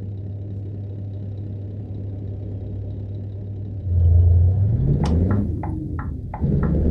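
Scania V8 truck engine idling steadily, then revved up a little before four seconds in, its pitch rising. From about five seconds a regular run of sharp knocks, about three a second, sounds over the engine.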